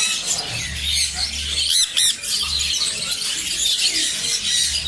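Many caged birds chirping and chattering together, with two loud, sharp squawks about two seconds in.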